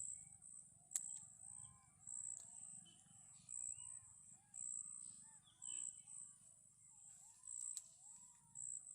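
Faint jungle wildlife: a high insect trilling in regular pulses, over many short, arching animal calls repeating one after another.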